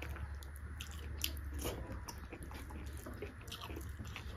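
Close-up chewing of beef curry, with scattered wet mouth clicks and smacks over a steady low hum.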